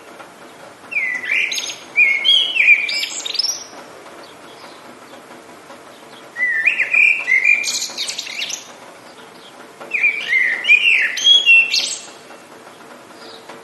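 A songbird singing three loud phrases of quick rising and falling notes, a few seconds apart, over a steady soft hiss of rain.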